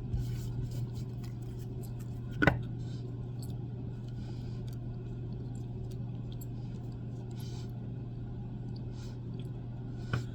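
Oracle cards being handled in a quiet room: one sharp snap about two and a half seconds in, then a few faint taps and rustles over a steady low hum.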